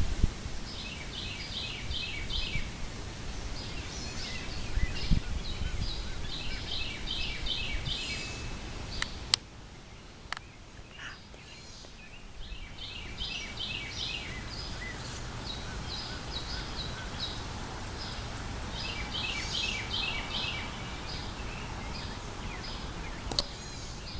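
A songbird singing: phrases of quick, repeated high chirping notes, each lasting a second or two and coming every few seconds, over a steady low rumble.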